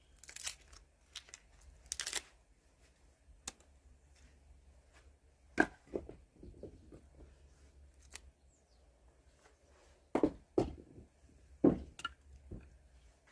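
Firewood being handled: scattered sharp knocks, with short bursts of rustling and tearing between them. The loudest knocks come at about five and a half, ten and twelve seconds in.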